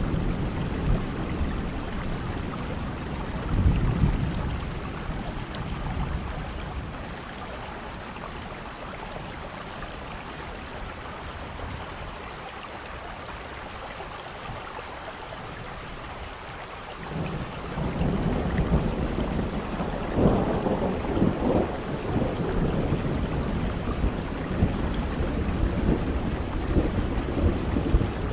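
Steady rain with rolling thunder. A low rumble fades after a few seconds, leaving mostly the hiss of rain, then thunder rumbles in again a little past halfway and keeps rolling in swells.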